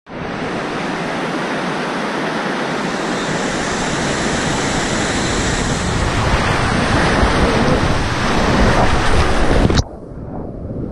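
Rushing water of river rapids, a steady loud noise that slowly grows louder and then cuts off suddenly near the end.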